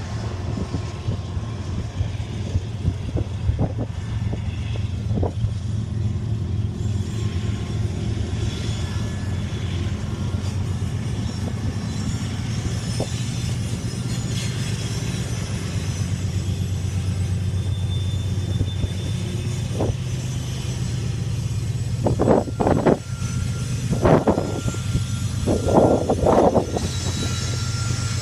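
Freight grain train rolling past: a steady low rumble with scattered wheel clicks, and a run of louder clacks about three-quarters of the way through.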